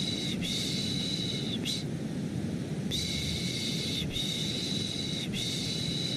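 Rhythmic 'shh' shushing repeated about once every second and a quarter, with a longer break about two seconds in, layered over a steady white-noise hiss: a baby-soothing shush-and-white-noise track.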